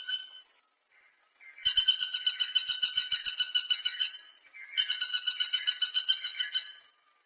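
Woodpecker calling: two runs of rapid, evenly repeated high notes, about eight or nine a second. The first starts near two seconds in and the second about a second after the first ends.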